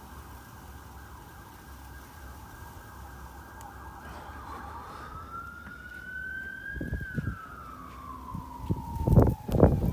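Emergency vehicle siren: a fast warbling yelp for the first few seconds, then a slow wail that rises and falls once. Loud thumps and rumbles come in around the middle and grow loudest near the end.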